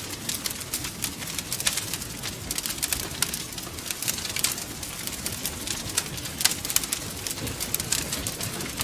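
Wood fire crackling, with a dense run of irregular sharp pops and snaps over a low rumble of burning flames. A few louder pops stand out, one about six and a half seconds in.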